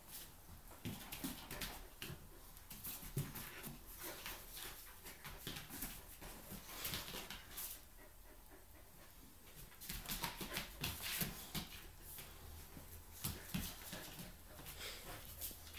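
A chow chow and a Samoyed play-wrestling: irregular scuffling and clicking of paws and bodies, with a quieter lull about halfway through.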